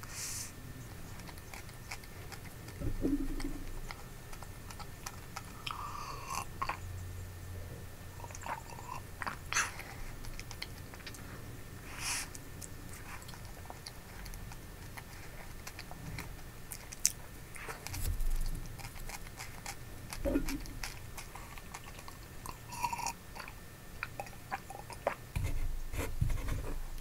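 Close-miked chewing and biting of a soft M&M s'more cookie with marshmallow, with scattered small crunches and clicks.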